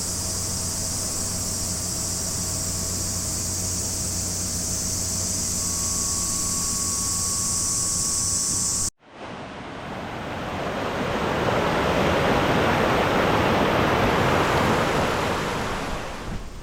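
A steady, high-pitched insect chorus over a faint low hum. After a sudden cut about nine seconds in, a steady rush of flowing water swells up and holds.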